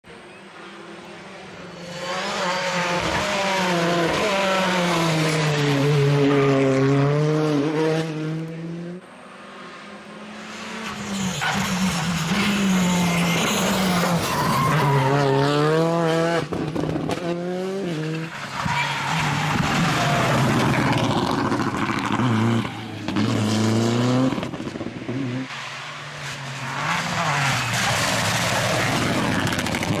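Rally car engines revving hard, the pitch climbing and dropping again and again through gear changes and lifts, with a quieter lull about eight to ten seconds in.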